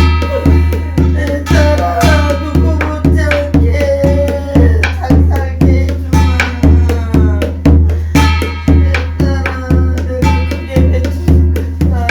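Korean shamanic gut ritual music: an even drum beat of about two to three strokes a second under a wavering melody line.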